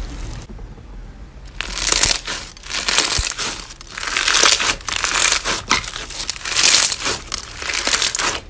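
A crumbly material being crushed, with repeated crisp crunching and crackling in bursts, as from dried soap or crunchy slime breaking apart.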